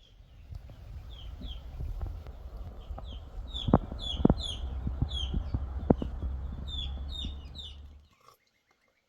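Birds chirping over and over in short, high, falling chirps, with a low rumble and a few sharp knocks in the middle; the sound cuts off abruptly about eight seconds in.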